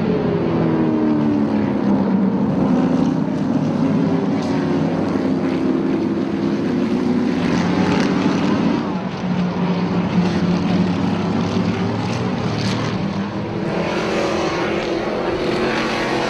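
Trans Am race car engines at racing speed, several cars passing in turn, the pitch falling and rising as they go by and change gear.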